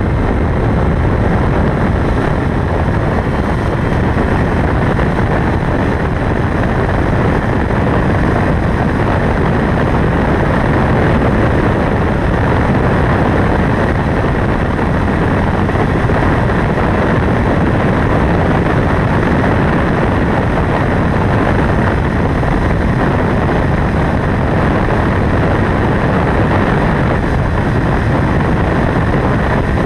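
Motorcycle riding along at a steady pace: engine running and a heavy rush of noise, even and unbroken throughout.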